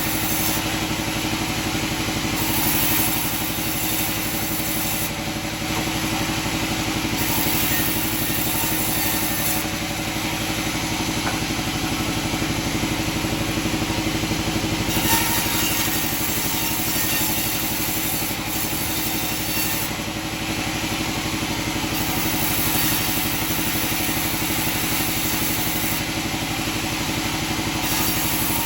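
Sawmill machinery running steadily: a continuous mechanical hum with a constant drone under a dense, hissing noise.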